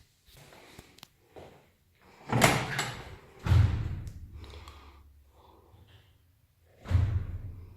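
A series of heavy knocks, the three loudest about two, three and a half and seven seconds in, each trailing off in a low rumble, with fainter knocks between.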